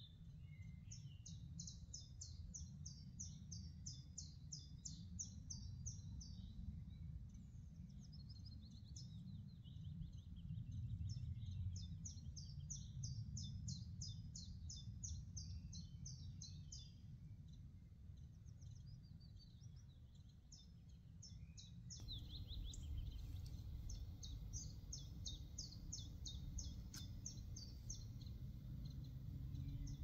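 A songbird singing bouts of fast, repeated high notes, each a quick downward slur, lasting several seconds at a time with short pauses between, over a steady low background rumble.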